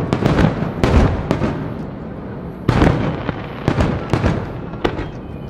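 Rapid sharp bangs and crackling pops in clusters. There is a dense run in the first second and a half, another burst a little past halfway, and scattered single bangs after that.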